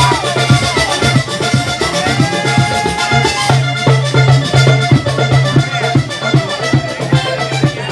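Instrumental vallenato played on accordion, caja drum and guacharaca scraper: the accordion carries the melody over a fast, steady beat of drum strokes and scrapes.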